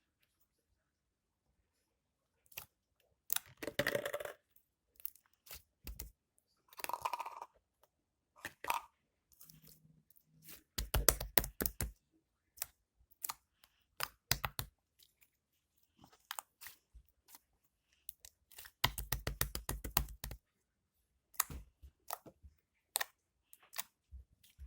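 Slime being pressed and worked by hand, making scattered crackling and popping clicks. Dense runs of rapid clicks come about 11 and 19 seconds in.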